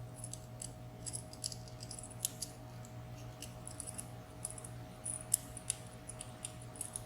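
Light, irregular metal clicks and ticks of steel tweezers picking at a spring and small parts inside a disassembled padlock, over a steady low electrical hum.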